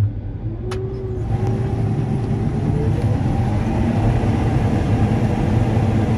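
Combine harvester working through corn: a steady engine hum and a whine that dips and then rises again. About a second in, a louder, even rushing noise joins them and holds steady.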